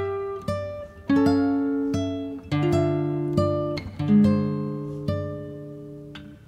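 Background music: a plucked acoustic guitar playing single notes and chords, each one ringing out and fading.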